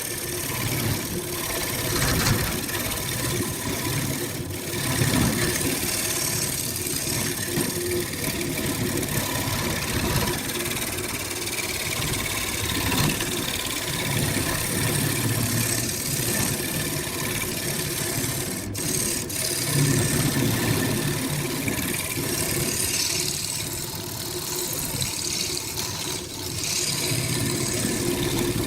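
Woodworking machine running steadily: a motor hum under a broad hiss, wavering in loudness throughout.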